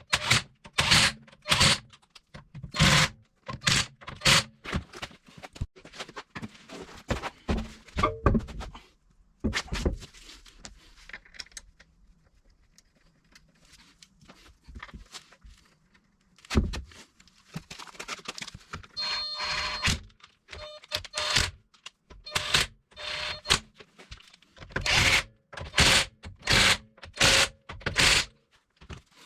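Irregular knocks and clunks, closely spaced at first, then a quieter stretch midway before they start again. About two-thirds of the way through there is a brief, steady ringing tone.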